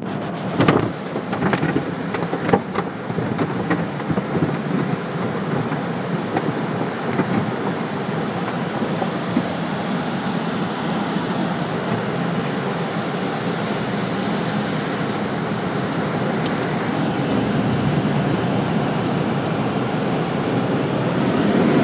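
Water spray and tunnel car-wash equipment drumming steadily on a car's body, heard from inside the car, with a few sharp knocks in the first three seconds.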